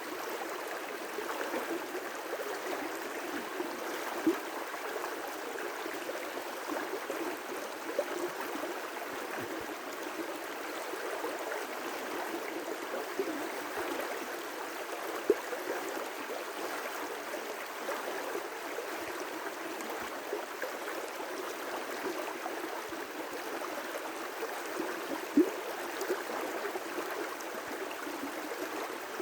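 River rapids: a steady rush of water with scattered splashes and gurgles, a few of them louder than the rest.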